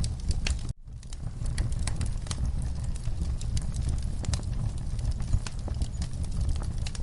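Wood fire in a fireplace crackling, with irregular sharp pops over a steady low rumble. The sound cuts out abruptly for a fraction of a second under a second in, then resumes.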